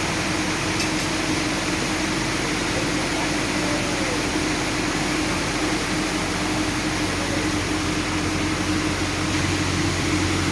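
Sawmill machinery running steadily, a constant hum under an even wash of noise with no distinct knocks or breaks.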